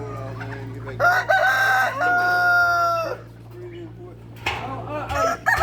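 Rooster crowing: one long crow about a second in lasting about two seconds, softer calls after it, and another crow starting at the very end, over a steady low hum.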